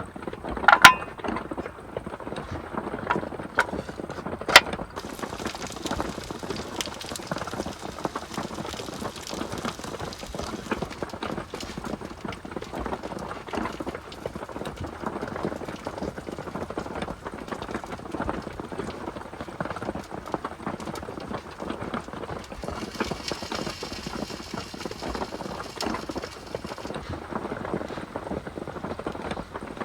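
Steady heavy rain pattering on a roof, with a few sharp knocks in the first five seconds.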